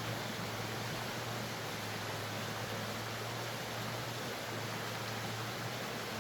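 Steady, even hiss with a constant low hum underneath and no distinct events.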